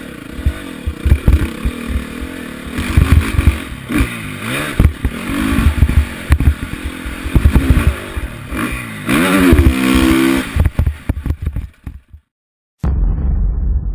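Motocross bike engine heard from an onboard camera, revving up and down repeatedly through gear changes, with chassis rattle and wind on the microphone. The sound cuts out suddenly about 12 s in, then a short burst of low rumble follows.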